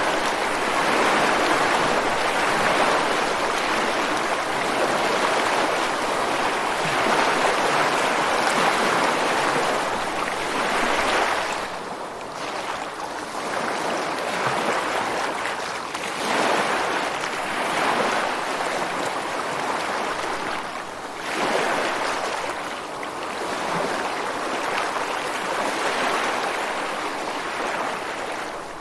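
Ocean waves breaking and washing on a beach in a continuous rush of surf, swelling and ebbing every few seconds, heaviest in the first ten seconds.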